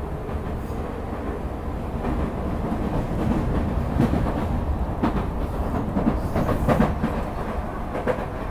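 Tokyu Oimachi Line train pulling away from a station, heard from inside the car: a steady low rumble, with a run of wheel clicks over the rail joints in the second half.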